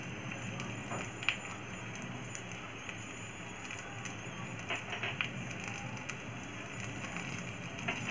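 Long green chillies frying in a little oil in a pan over a low gas flame: a soft, steady sizzle with occasional faint crackles.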